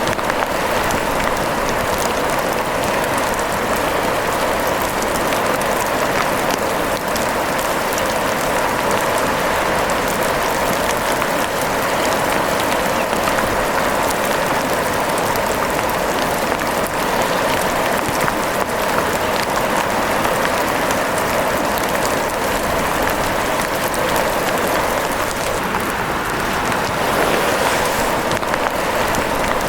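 Steady rain falling, an even hiss with many small sharp ticks of drops throughout.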